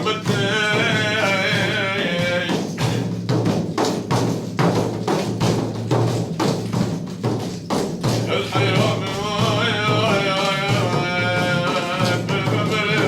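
A male voice singing a madh, a devotional praise song, over hand percussion. About two and a half seconds in, the voice stops and the drum strokes play alone for several seconds; the singing comes back near the end.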